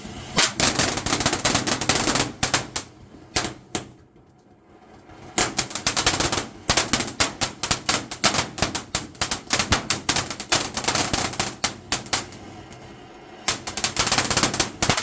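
Moonlit Mist firework fountain crackling loudly: a dense, rapid stream of sharp pops in three runs, with short lulls about four seconds in and near twelve seconds.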